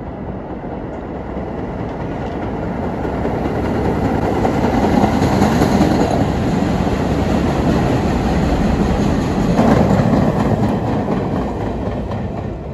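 Subway train running on its rails, the rumble building over the first few seconds and easing off near the end.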